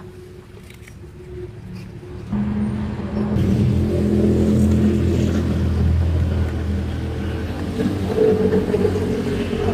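Suzuki Karimun Estilo's engine running at a steady idle, coming in suddenly about two seconds in, as it is run with its newly fitted timing belt.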